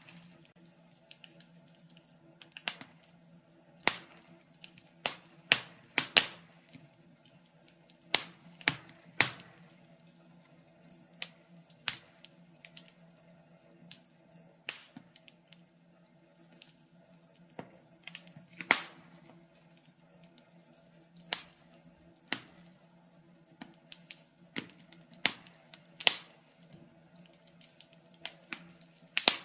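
Wood fire in a fireplace crackling, with irregular sharp pops about once or twice a second; one louder pop comes a little past the middle. A faint steady low hum lies underneath.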